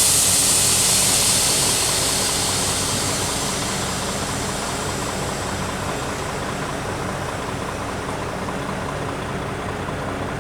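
Heavy truck diesel engine idling steadily while compressed air vents from the air system with a loud hiss that starts suddenly and fades away over about four seconds.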